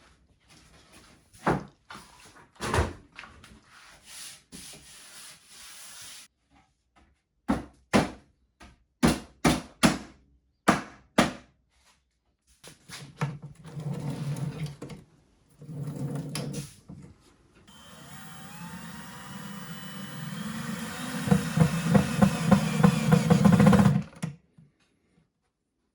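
Workshop handling noise, a run of sharp wooden knocks and clicks, followed by a small power tool running in short bursts. Near the end it makes a longer run that builds up, with rapid clicking pulses, and stops suddenly.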